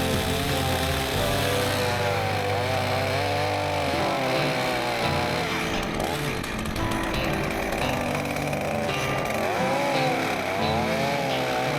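Two-stroke chainsaw cutting, its engine pitch sagging under load and rising again, twice, over background music.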